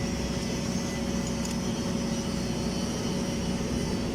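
Steady mechanical drone with a constant low hum and hiss from running welding machinery on a pipeline site; no welding arc is burning yet.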